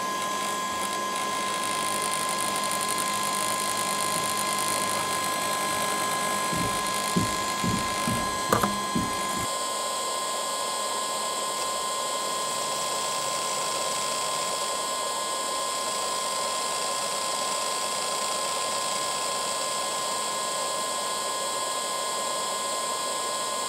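Powered-on DJI Phantom 4 Advanced with its camera gimbal whining steadily in a few fixed tones over a high hiss. From about a third of the way in, a few seconds of clunks and grinding come from the gimbal, the grinding noise that the owner suspects is a fault in the gimbal.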